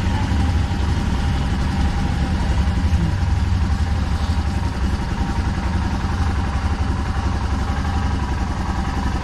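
Royal Enfield Himalayan's single-cylinder engine running steadily with a low, even thump.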